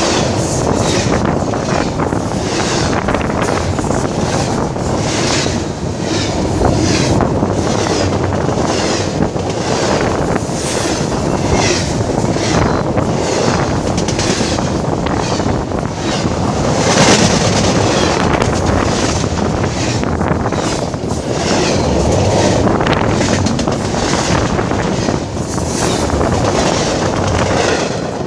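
A train rolling past close by: a steady rumble, with the wheels knocking over rail joints about once a second. Wind buffets the microphone.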